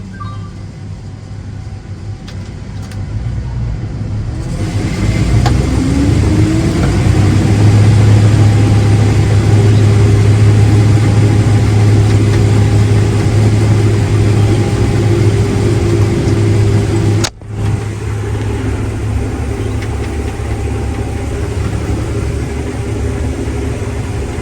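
A large diesel engine on farm machinery runs up in speed about five seconds in, then holds a steady, loud hum. Around two-thirds of the way through, the sound cuts out abruptly for an instant and then carries on more quietly.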